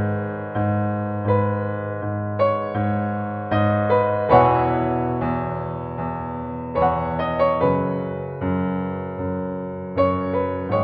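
Background piano music: a slow, gentle melody of struck notes and chords, each fading away before the next.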